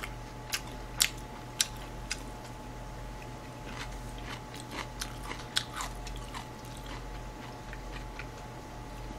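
Close-miked chewing of chop steak and bell peppers, with sharp clicks and crunches: four loud ones in the first two seconds, then a denser run of them in the middle.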